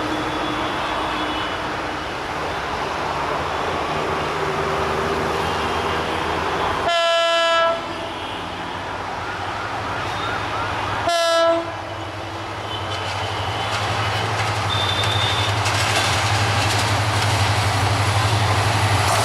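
Diesel locomotive horn sounding two loud blasts, about four seconds apart. The locomotive's engine and the rumble of the train on the rails then grow steadily louder as it approaches.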